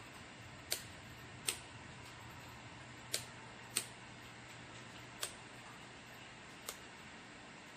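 Six sharp, single clicks at uneven intervals, the first four loudest, over a faint steady low hum.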